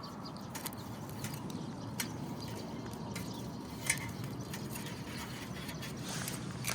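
Wood fire crackling in a Kamado Smart Grill B6, with scattered sharp pops over a steady low noise. A low steady hum comes in near the end.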